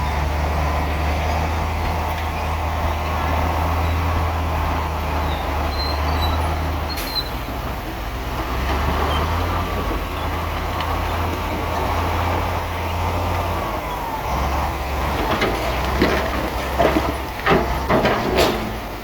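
Heavy diesel earthmoving machinery running steadily, its low engine note shifting a few times as it works. Several sharp clanks or knocks come near the end.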